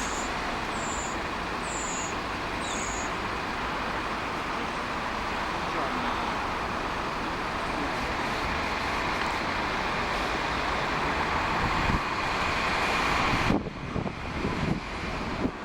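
Jet airliner on final approach to land: a steady rush of engine and air noise that grows slightly louder, then drops off sharply about 13 seconds in. Four short, high chirps come in the first few seconds.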